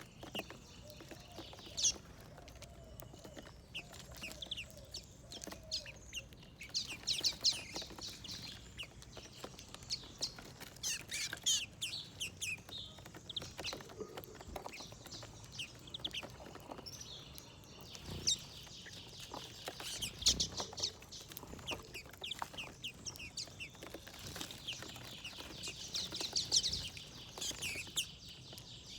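Small birds chirping: many short, high calls in quick clusters, with brief pauses between them.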